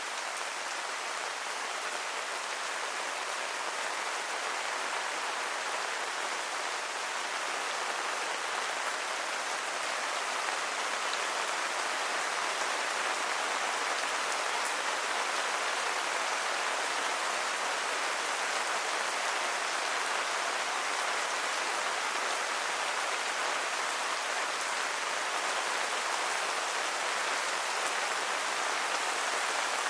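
Steady rain falling, a dense even patter of drops on the ground and surfaces, growing a little heavier about ten seconds in.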